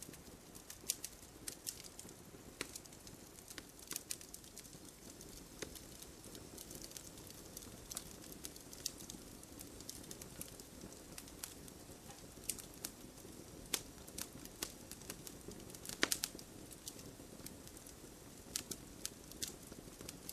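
Fire burning in a fireplace: a steady low rush of flames under frequent sharp crackles and pops, with a louder cluster of pops about sixteen seconds in.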